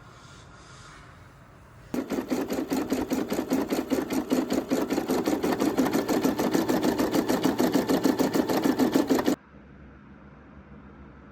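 Sewing machine stitching, a fast even run of needle strokes that starts abruptly about two seconds in and stops suddenly after about seven seconds.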